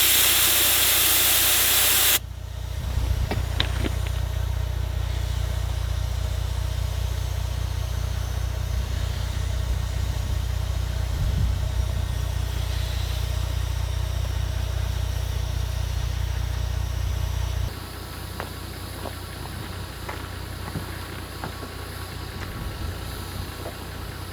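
Loud hiss of air escaping from a truck tyre being aired down, cutting off suddenly about two seconds in. Then the truck's engine runs steadily with a low hum, turning quieter near the end.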